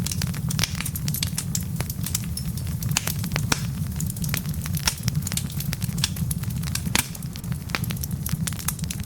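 Wood fire burning in a fireplace: a steady low rumble of flame with many irregular sharp crackles and pops from the logs, a few louder pops standing out.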